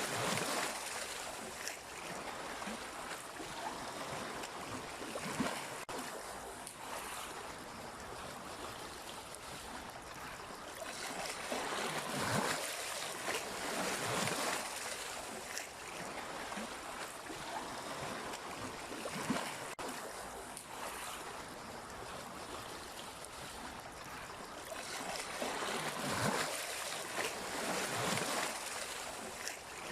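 Sea waves washing onto the shore, a continuous rushing hiss that swells as a wave comes in every few seconds, at irregular intervals.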